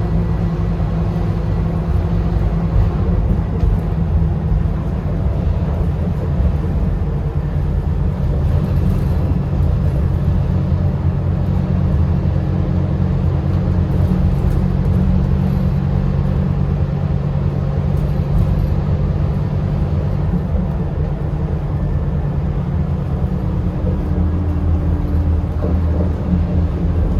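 Scania DC9 9.3-litre five-cylinder diesel engine of a Scania K280UB bus running steadily under way, with a low hum and road noise. Its pitch shifts a few times as the bus changes speed.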